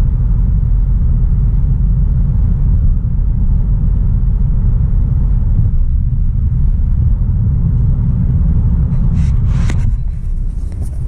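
Low, steady rumble of a 2016 Audi A3 Sportback 1.4 TFSI on the move, its turbocharged four-cylinder petrol engine and tyre noise heard as a car driving along. A few short clicks or knocks come near the end.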